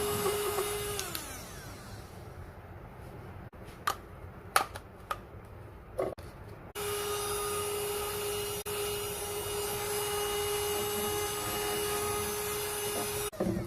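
Portable 2-in-1 vacuum cleaner's motor running with a steady whine, then winding down in pitch when switched off about a second in. A few sharp clicks follow, and about halfway through the motor is running again, steady until near the end.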